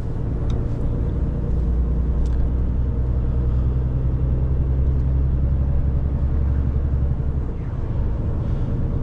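Renault truck's diesel engine running under a heavy load while driving, a steady low drone that deepens and strengthens about a second and a half in and eases off after about seven seconds.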